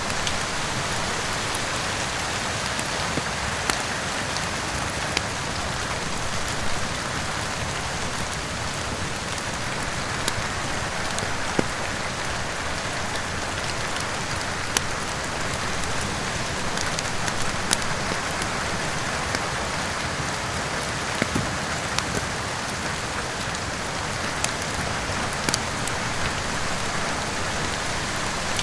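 Steady heavy rain with a wood fire crackling, sharp pops coming irregularly every second or two over the even hiss of the rain.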